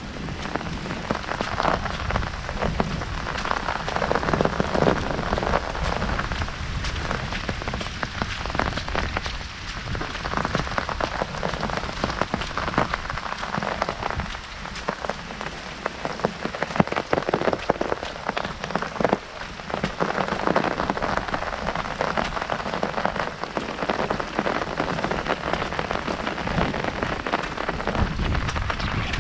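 Heavy rain falling on an umbrella overhead: a dense, steady patter of countless drops.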